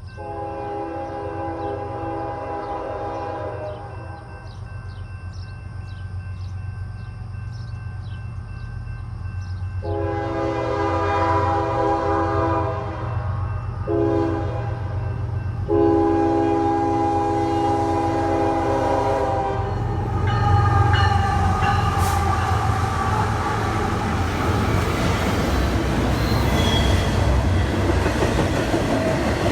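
Locomotive air horn sounding the long, long, short, long grade-crossing signal over the low rumble of an approaching diesel engine. After the last blast the train passes close by, with loud rumbling wheel-on-rail noise.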